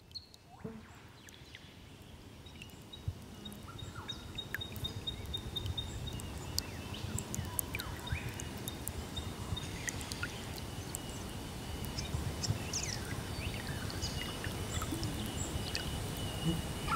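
Birds calling and chirping over a low steady rush, fading in over the first few seconds; a fast run of high ticking notes comes a few seconds in.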